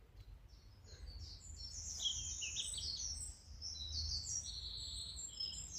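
Songbird singing a fast, continuous run of short high notes, starting about a second in, over a low rumble of wind on the microphone.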